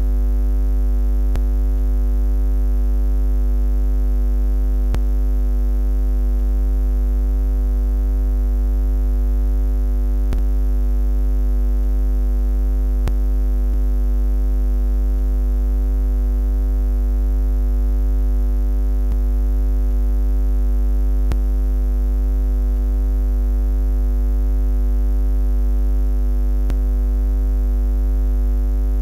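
A steady, unchanging low buzz.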